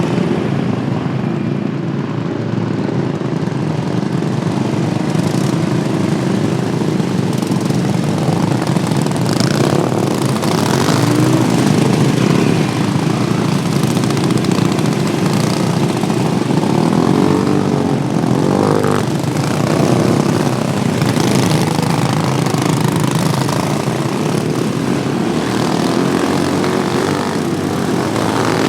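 Racing lawn mower engines running hard on the track, with the pitch rising and falling as mowers rev and pass, most clearly about a third of the way in and again past the middle.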